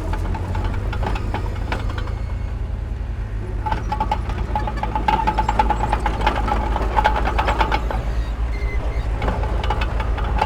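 Heavy diesel earthmoving machinery running with a steady low engine drone. About four seconds in, rapid metallic clanking and a high steady squeal join it for a few seconds.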